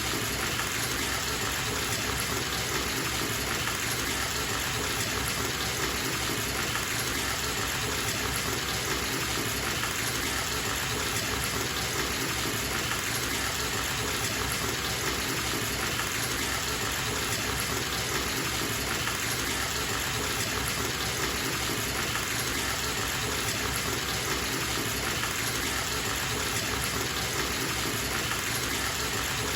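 Water running from a bathtub tap into the tub, a steady, unchanging gush.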